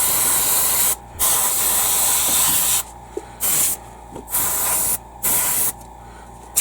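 Airbrush spraying paint in bursts as the trigger is pressed and released: two longer hisses, then three short ones about a second apart, each cutting off sharply.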